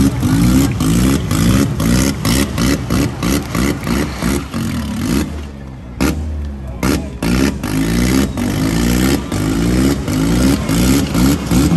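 Engine of a wrecked demolition-derby car revving over and over in quick bursts, its pitch climbing with each one, easing off briefly about halfway through.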